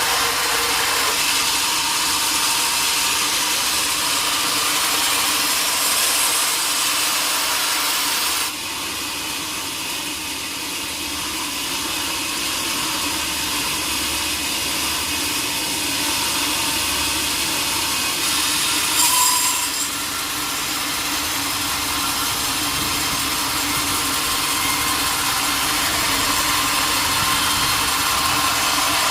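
Sawmill saw cutting through a large log with a steady rasping noise. It drops a little in level about eight seconds in and gives a short louder burst a little after the middle.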